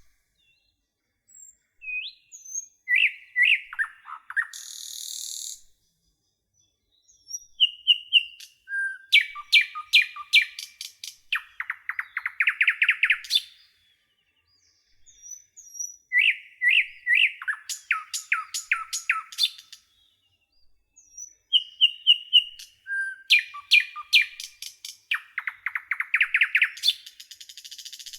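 Nightingale singing in phrases a few seconds long, separated by short pauses. Each phrase mixes short whistled notes, runs of sharp repeated notes, and a fast buzzy trill. A similar phrase is repeated several times.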